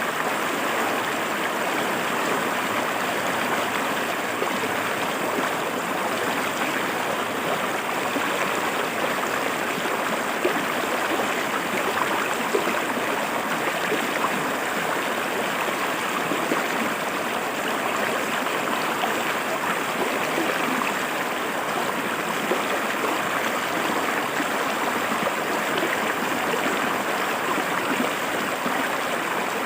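River water flowing and splashing over rocks: a steady, even rushing with small splashes.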